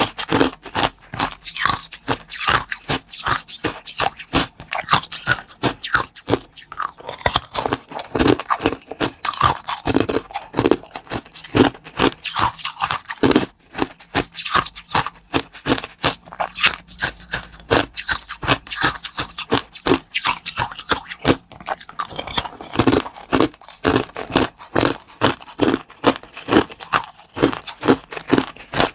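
Close-up crunching and chewing: a person biting into and chewing hard, crunchy food, with rapid crisp crunches several times a second.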